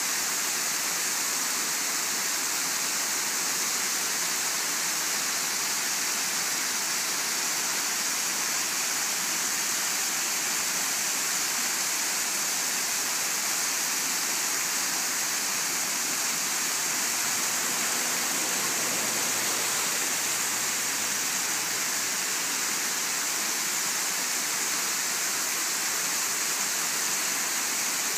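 Bigăr waterfall: water falling and splashing in a steady, unbroken rush.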